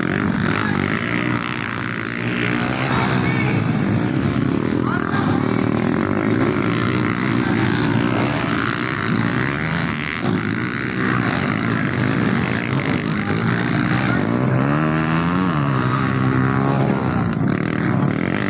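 Racing motorcycles' four-stroke engines running at high revs, their pitch repeatedly rising and falling as the bikes accelerate, shift and pass, with a clear dip and climb in pitch about fifteen seconds in.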